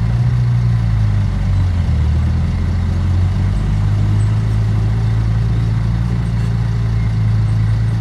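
Heavy diesel engine of earthmoving machinery running steadily, its pitch dipping lower for a couple of seconds about a second in before settling back.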